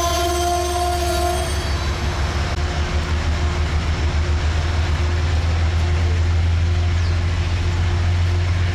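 A train horn sounds a held chord that cuts off about a second and a half in. The train's heavy low rumble carries on steadily as it passes.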